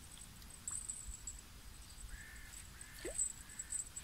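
Faint bird calls: a few short, high, arching notes in the second half.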